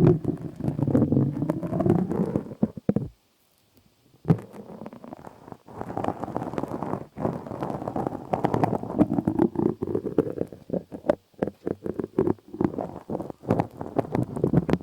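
Close-miked rubbing and scratching with dense crackling clicks, an ASMR trigger sound. It stops for about a second a little after three seconds in, then carries on.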